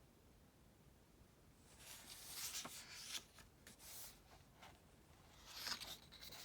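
Paper rustling as a book's pages are handled and turned, in two soft bouts with small crisp clicks, the second starting a little after the middle.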